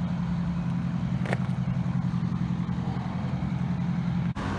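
Fire engine's diesel engine running steadily at a low, even pitch, with one short click about a second in.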